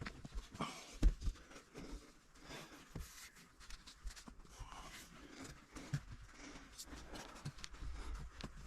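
Irregular scuffing, knocking and rustling of someone moving about in a cramped space and handling things, with one louder thump about a second in.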